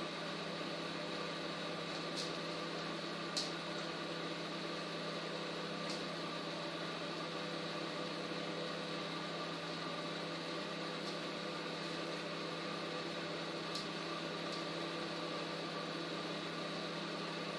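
Microwave oven running: a steady hum with a few faint clicks over it.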